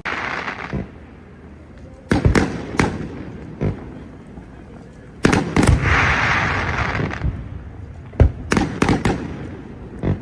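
Aerial fireworks display: loud bangs of shells bursting, some single and some in quick clusters of several, with a spell of steady hissing crackle after the middle.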